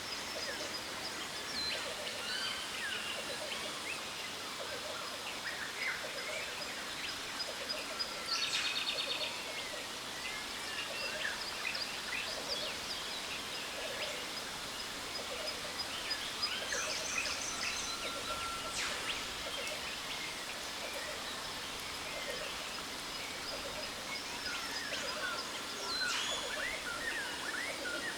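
Steady rush of a jungle waterfall, with many birds chirping and calling over it and a steady high-pitched whine underneath; a buzzy trill stands out about eight seconds in.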